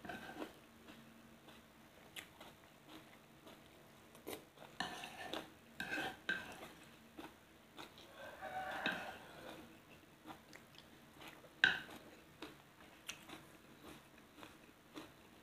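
Close-miked chewing of a spoonful of food, with a metal spoon scraping a clay plate near the start and a sharp clink, the loudest sound, about three-quarters through as the spoon is set down on the plate.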